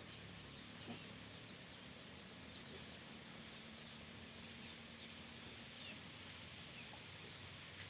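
Faint outdoor ambience with a low steady hum and a few short, high bird chirps that sweep upward in pitch, spread through the stretch.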